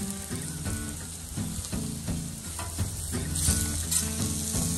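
Food sizzling in oil on a barbecue grill, a steady frying hiss with crackle.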